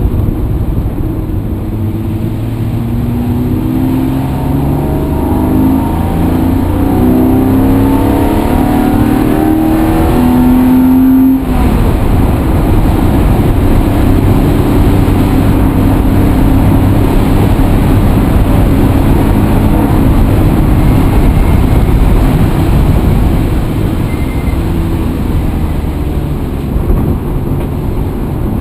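A motor vehicle's engine accelerating, its pitch climbing in repeated rises, then running more steadily after a sudden break about eleven seconds in.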